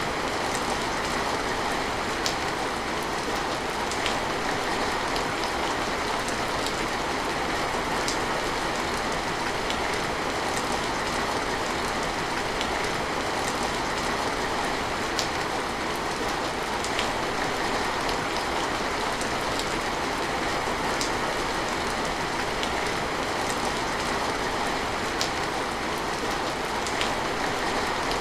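Steady rain falling, an even hiss with sharp drops ticking now and then.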